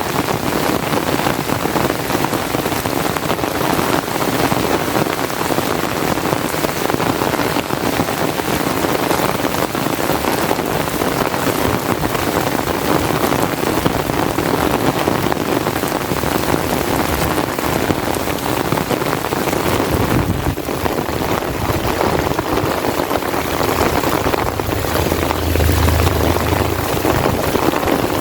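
Steady heavy rain pattering on an umbrella overhead, with a short low rumble near the end.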